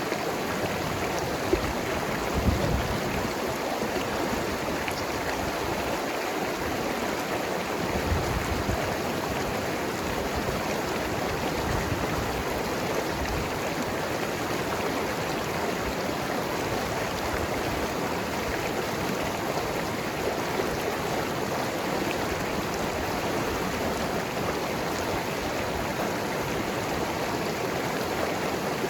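Mountain river running over rocks, a steady rush with gurgling and a few low splashes in the first part.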